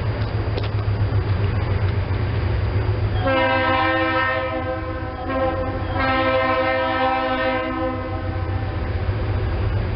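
GE C30-7 diesel locomotive's air horn sounding two long blasts, each a chord of several tones, beginning about three seconds in with a short gap between them. Underneath is the steady low rumble of the running train.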